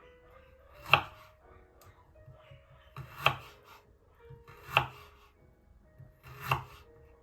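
Kitchen knife chopping on a cutting board: four separate strokes spaced about one and a half to two seconds apart, over faint background music.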